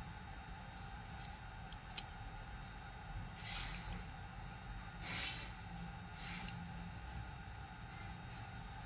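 Light handling sounds: a few sharp clicks, the loudest about two seconds in, and two brief scraping sounds, over a faint steady hum.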